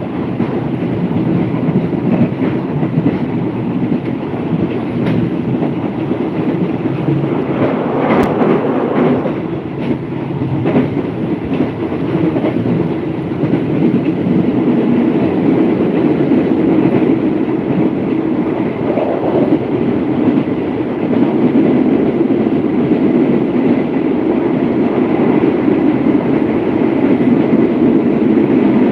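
Moving passenger train heard from an open carriage window: steady running noise of the wheels on the rails, with a few sharp clicks.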